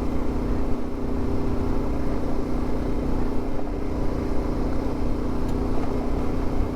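CFMoto 450MT adventure motorcycle's parallel-twin engine running at a steady, even pitch while riding, over a low rumble of wind and road noise.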